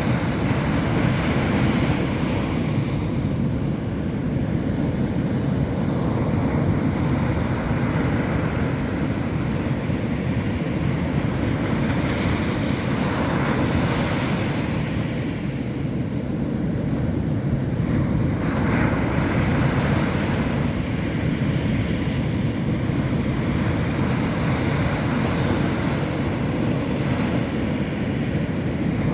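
Indian Ocean surf washing onto a beach, a steady rush of breaking waves that swells now and then as a wave breaks, with wind rumbling on the microphone.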